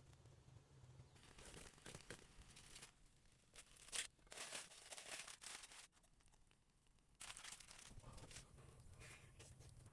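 Faint rustling and scraping in several short stretches, with one sharp click about four seconds in.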